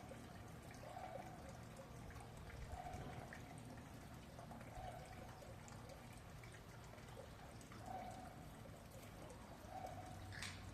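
Red panda chewing bamboo: faint, scattered crunches and crackles, with one sharp snap near the end.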